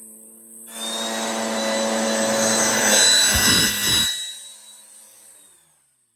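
Bissell PowerForce upright vacuum running loud for about three seconds, then switched off, its motor winding down and fading out.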